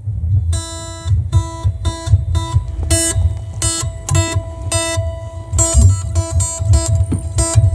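Guitar played through a car audio amplifier and subwoofer: a quick run of plucked notes, many of them repeating the same pitch, with a heavy low rumble underneath.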